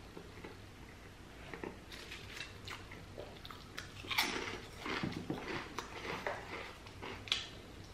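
Potato chips bitten and chewed close up: a run of crisp crunches, loudest about four seconds in, then chewing crackles. A sharp click near the end.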